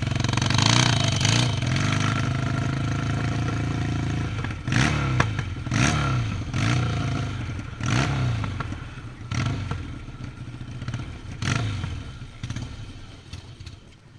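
Motocross motorcycle engine running hard, then revved in about six short throttle bursts, each pitch rise falling away again, growing fainter near the end.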